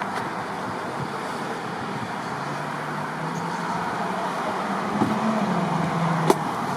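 Steady road traffic noise, with a vehicle engine hum that comes in about two and a half seconds in, rises slightly in pitch and fades, and a single sharp click near the end.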